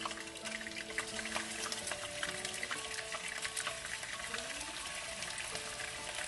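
Pork ribs frying in hot oil in a pan, a steady sizzle with dense crackling and spattering as they brown.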